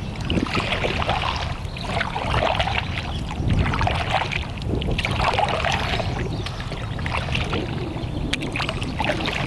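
Canoe paddle strokes dipping and splashing in the water, with water sloshing along the hull, over a steady low rumble.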